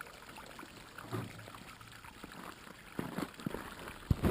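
Spring water running and trickling from the spring's outflow. Sharp knocks and thumps come from about three seconds in, the loudest near the end.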